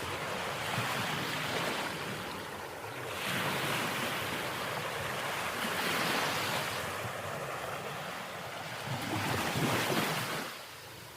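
Sea surf: waves breaking and washing in, the rush swelling about every three seconds and easing off near the end, with some wind on the microphone.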